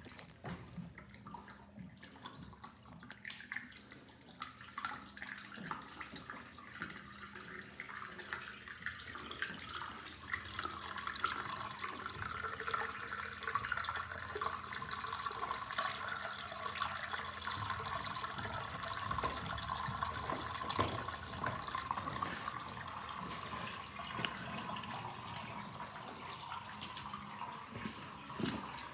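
Water running and splashing steadily, like a tap running into a sink, growing louder about ten seconds in. A low steady hum sits under it for the first several seconds.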